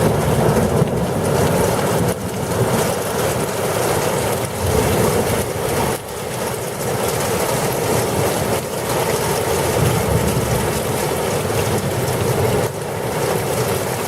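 Thunderstorm: a steady, loud rushing of heavy rain and wind, with a low rumble underneath.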